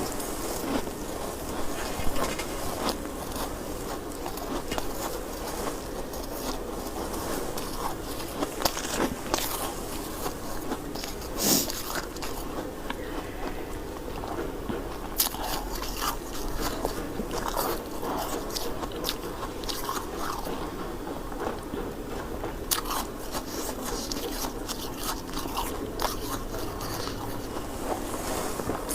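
A person biting and chewing hard white ice close to the microphone. It makes irregular crisp crunches and crackles as the ice breaks between the teeth.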